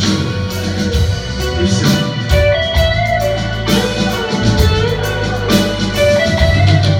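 Live vocal-instrumental band playing an instrumental passage: held melody lines over a steady drum beat, with no singing.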